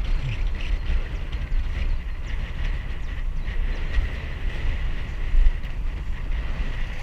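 Wind buffeting the microphone of a camera mounted on a moving bicycle: a steady, uneven low rumble over a wash of road and riding noise.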